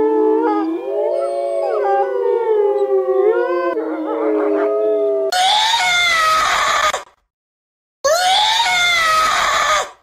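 Several wild canids howling together, their long calls gliding and overlapping. About five seconds in this gives way to a louder, harsh screaming call, heard twice with a second's pause between.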